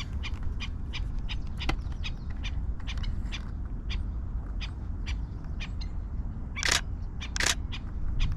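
A small bird giving short, sharp calls over and over, about three or four a second. Two louder camera shutter clicks come near the end.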